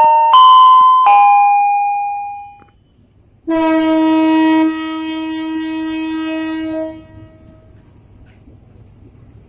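Station chime notes ringing and fading over the first two seconds, then the BB 203 diesel locomotive's horn sounds one long blast about three and a half seconds in, dropping in loudness after a second and cutting off a few seconds later. A low engine rumble remains underneath.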